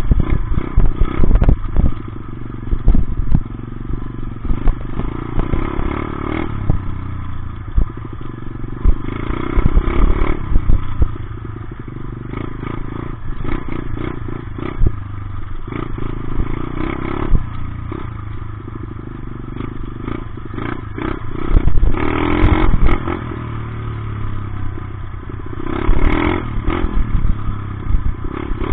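Dirt bike engine revving in repeated surges while riding off-road, with clattering knocks and heavy buffeting on the microphone.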